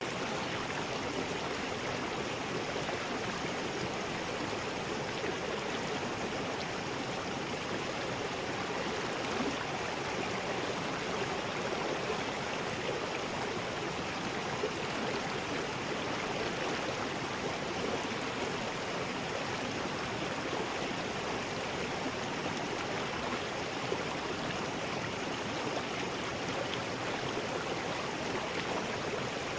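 River rapids: water rushing over rocks in a steady, even roar with no change.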